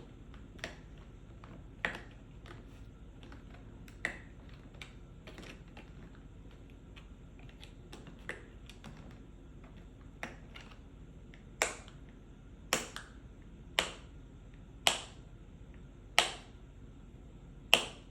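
Tapping on a medicine/pill box: light, scattered taps, then about two-thirds of the way in six louder, sharper taps roughly a second apart, each with a brief ring after it.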